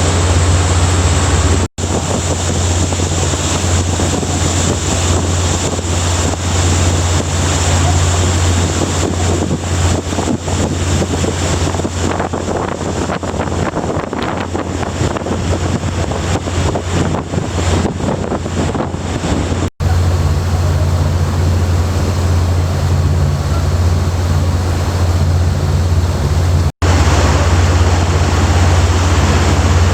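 Sightseeing boat's engine running with a steady low drone, with water rushing past the hull and wind buffeting the microphone, gustier in the middle; the sound breaks off for an instant three times.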